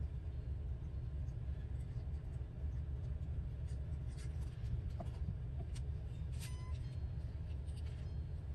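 Steady low background hum, with faint paper rustling and a few light taps as paper scraps are handled and pressed down, mostly around the middle.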